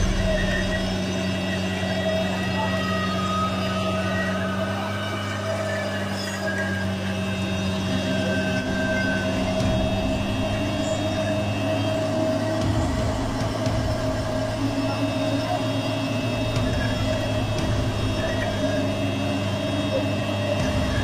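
Engine of an off-road vehicle stuck in mud, running steadily.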